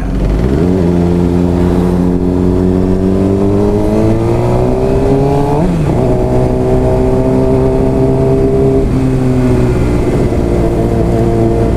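Suzuki GSX-R600's inline-four engine heard from the rider's seat, pulling up through the revs, with a gear change about six seconds in and a steady, slightly easing cruise afterwards, under low wind rumble.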